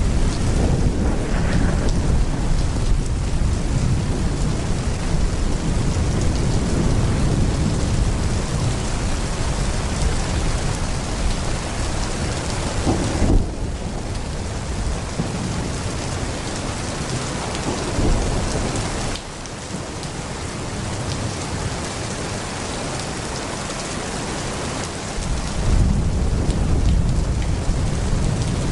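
Heavy rain pouring steadily, with a deep rolling rumble of thunder underneath. The rumble is strong through the first half, drops away about two-thirds of the way in, and swells again near the end.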